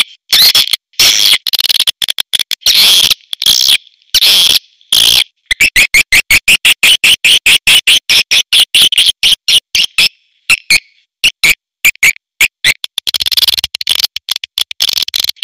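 Swiftlets chittering: rapid trains of short high chirps with brief gaps between them, fastest in the middle of the stretch. It is a swiftlet lure call recording of the kind played to draw swiftlets into a nesting house.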